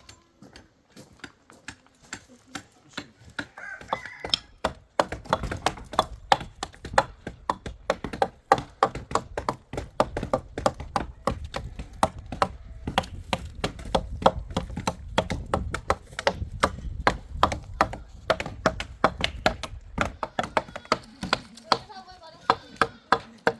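Rapid, evenly repeated knocks of a hard striking blow, about three to four a second, starting about five seconds in, with a low rumble underneath.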